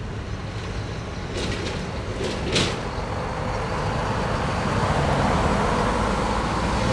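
Heavy trucks' diesel engines running in a convoy, a low rumble that slowly grows louder, with a few short hisses about a second and a half to two and a half seconds in.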